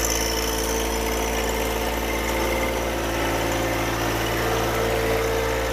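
Engine idling steadily, with an even, unchanging note.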